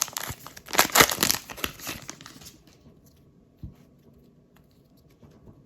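Trading-card pack wrapper being torn open and crinkled, in loud rustling bursts for about two and a half seconds, then quiet apart from one soft tap.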